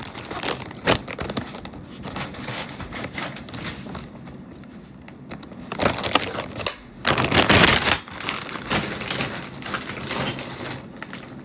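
Crystal bead bracelets being handled: rapid, irregular clicking and crinkling, with a louder rustle about seven to eight seconds in.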